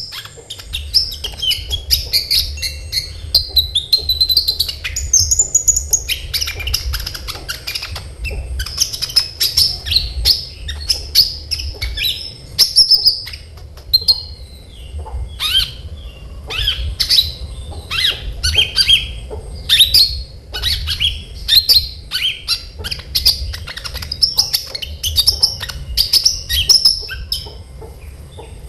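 Olive-backed sunbird singing energetically: rapid runs of high, sharp chirps, trills and ticking notes, with a few brief pauses. A steady low hum runs underneath.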